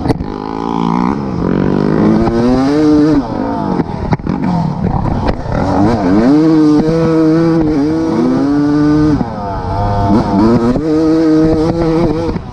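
Motorcycle engine running hard, its pitch dropping and climbing again several times as it is revved.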